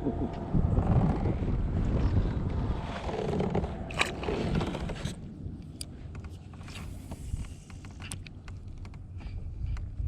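Scraping and bumping of handling noise on a kayak, with a low rumble, loudest in the first half. There is a sharp click about four seconds in, and then it goes quieter with a few faint ticks.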